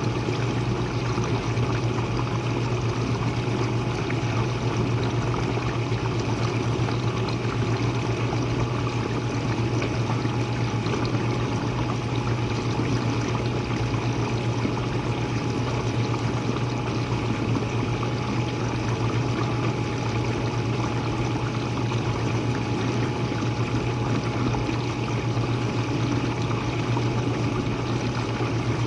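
Jenn-Air dishwasher running mid-cycle: its pump motor hums steadily under the sound of water spraying and splashing inside the tub.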